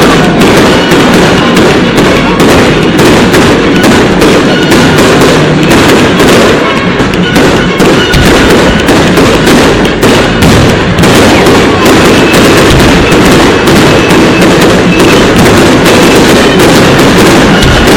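Fireworks going off in rapid succession: a dense, unbroken crackle of many small bangs, very loud.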